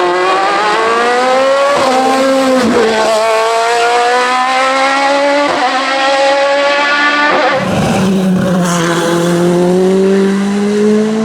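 Race car engine accelerating hard at high revs, its pitch climbing and dropping back sharply at each of several quick upshifts.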